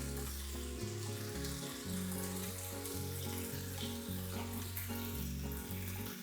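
Food sizzling and frying in hot oil in a pan, with a steady crackling hiss.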